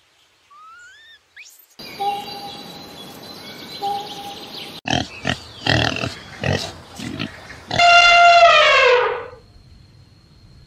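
Pigs grunting in a run of short calls, then one long loud squeal that falls in pitch about eight seconds in. Before the pigs there are faint gliding chirp-like calls and a stretch of rustling noise.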